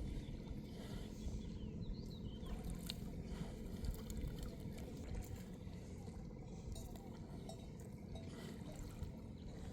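Lake water trickling and sloshing at a low level, with a few faint clicks.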